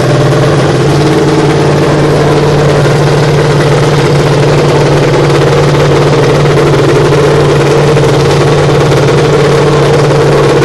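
Nitromethane-fuelled dirt bike engine idling, loud and even, holding one pitch with no revving.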